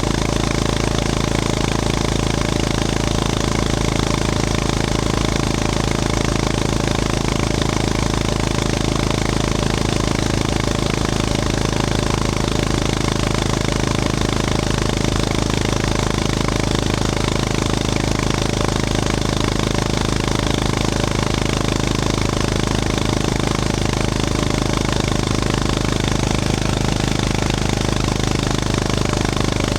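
Honda GB350S's air-cooled single-cylinder engine running at steady revs, its exhaust note holding an even pitch.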